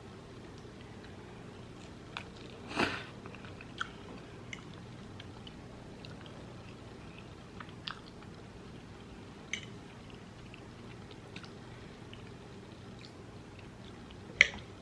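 A person eating, chewing with scattered short wet mouth clicks and smacks over a faint steady background hum; the loudest is a brief burst about three seconds in.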